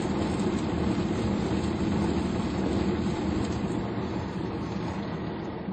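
Automatic car wash heard from inside the car: a steady rush of water spray and machinery over the bodywork, fading over the last couple of seconds.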